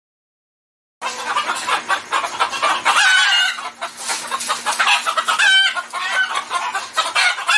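A flock of chickens clucking and squawking, with short, higher pitched calls standing out a couple of times. It starts abruptly about a second in.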